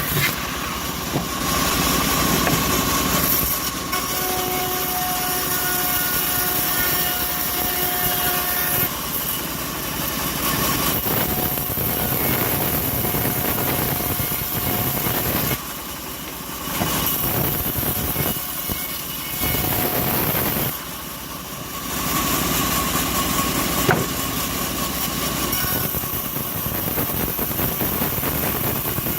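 Assembled bandsaw sawmill running and sawing an acacia log, its motor and blade making a steady mechanical din with a thin whine over it. The sound drops briefly twice, after about sixteen and twenty-one seconds.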